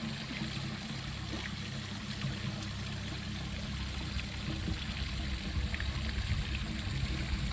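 Steady trickle of running water, like a garden stream or water feature, with a few faint small ticks.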